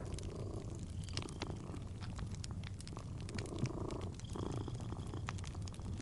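A cat purring in a few stretches, strongest about three to five seconds in, over a wood fire crackling with many small sharp pops and a low rumble.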